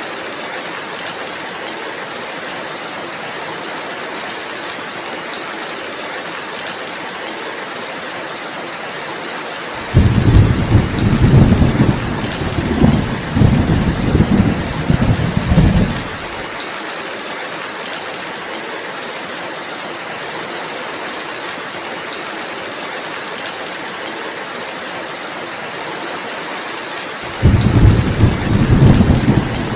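Steady rainfall hiss with two long rolls of low thunder: one comes in suddenly about a third of the way through and rumbles for about six seconds, and a second begins near the end.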